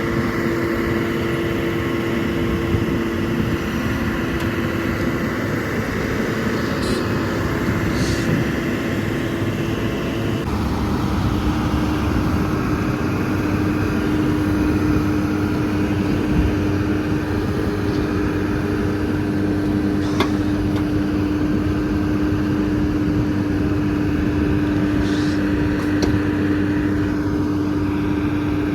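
A heavy vehicle's engine running steadily, its pitch shifting slightly about ten seconds in, with a few light clicks and knocks over it.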